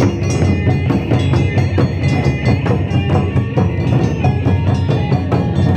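Japanese taiko drum ensemble playing a fast, dense, driving rhythm, with some ringing metallic tones over the drumming.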